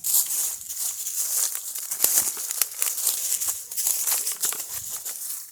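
Continuous crackling rustle with many irregular sharp crunches, mostly high-pitched.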